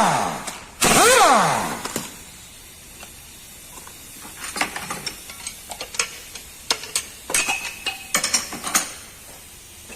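Workshop tool sounds: a loud burst with a falling whine about a second in, then scattered light metallic clinks and taps of tools and engine parts.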